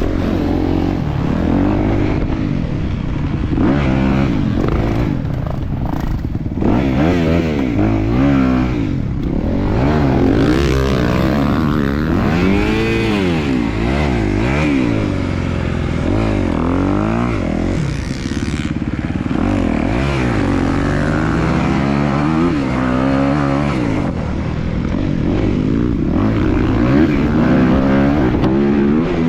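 A 250cc motocross bike engine running hard around the track, its pitch climbing steeply and dropping off again every second or two as the throttle is opened and shut through the gears.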